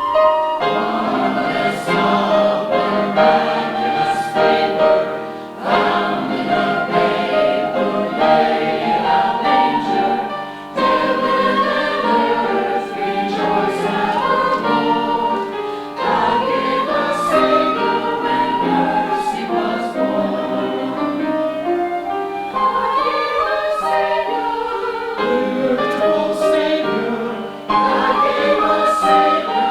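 Choir singing a piece of Christmas music with several voice parts in phrases.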